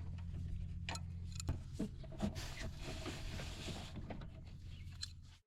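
Scattered light clicks and ticks from a White 6182 planter's drive shaft and sprocket being turned by hand to work freshly sprayed lubricant through them, over a steady low hum. The sound cuts off suddenly near the end.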